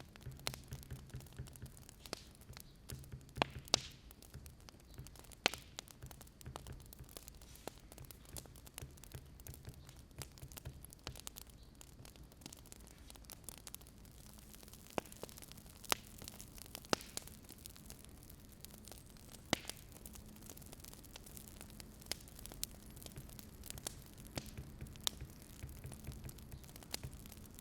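Wood fire crackling: irregular sharp pops and snaps over a faint steady hiss and a low hum.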